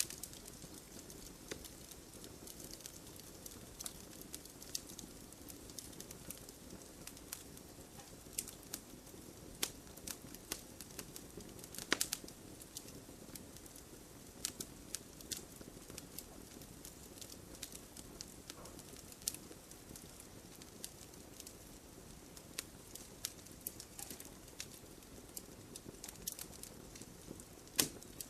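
Campfire burning: a low steady rumble of flame with frequent sharp, irregular crackles and pops from the burning wood, one louder pop about twelve seconds in and another near the end.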